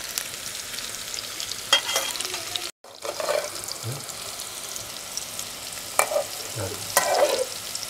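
Chopped bitter gourd sizzling in oil in an aluminium pan over a wood fire, with a metal fork scraping and clinking against the pan as the pieces are stirred. The sound drops out for a moment about three seconds in.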